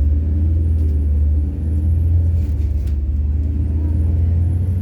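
Methane-fuelled MAZ-103 city bus running under way, heard from inside the passenger cabin: a steady low engine and road drone, with a faint high whistle rising twice.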